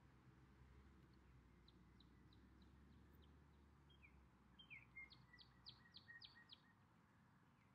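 Faint birdsong: a small songbird giving scattered short high chirps, then a quick series of about eight sharp notes a little under five seconds in.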